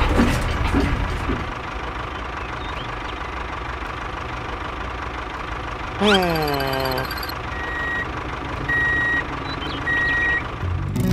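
A machine running steadily, with a falling tone about halfway through and then three short high beeps about a second apart, like a vehicle's reversing alarm.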